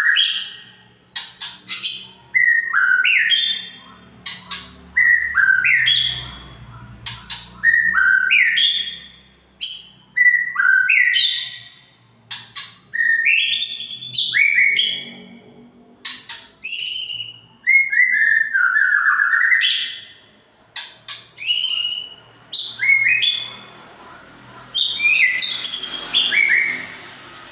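White-rumped shama singing loud, varied phrases of sliding whistles mixed with sharp clicking notes, a new phrase every two seconds or so.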